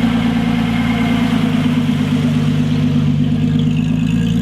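Car engine idling at a steady pitch.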